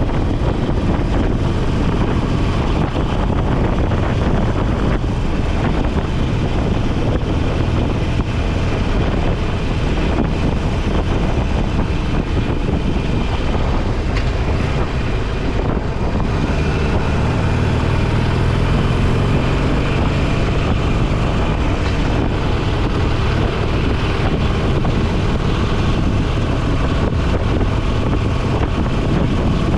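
Motorcycle engine running steadily at road speed under heavy wind rush on the microphone.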